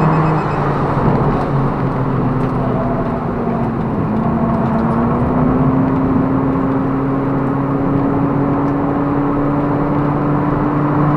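Toyota Prius (ZVW30) race car's drivetrain and road noise heard from inside the cabin under way: its 2ZR-FXE 1.8-litre four-cylinder engine gives a steady drone. From about four seconds in, a higher tone climbs gradually as the car gathers speed.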